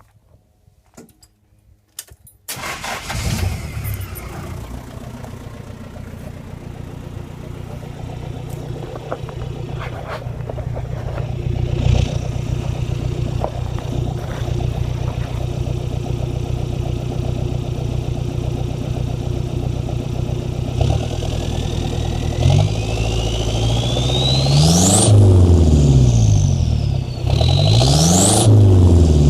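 Toyota Land Cruiser BJ40's turbocharged four-cylinder diesel engine starting about two seconds in, then idling steadily. Near the end it is revved twice, each time with a turbo whistle that rises in pitch and falls away as the revs drop.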